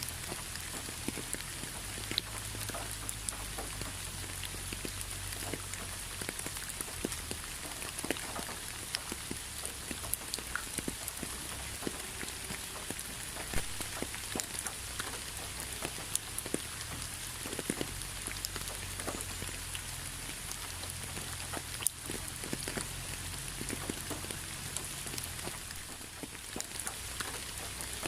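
Rain falling steadily, with a constant hiss and many separate drops ticking on a surface at irregular moments.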